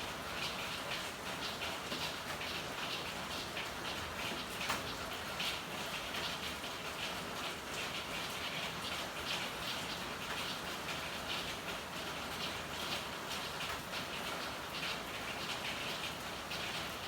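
Steady rain falling, a dense, even patter of drops, with one sharper tick about five seconds in.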